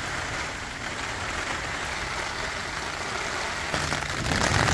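Steady rain falling on wet pavement and on a plastic tarp. It grows louder and fuller about three-quarters of the way through, when it is heard from under the tarp.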